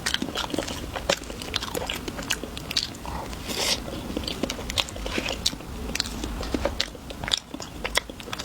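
Close-up biting and chewing of crunchy chocolate, with many short, sharp crunches and clicks throughout.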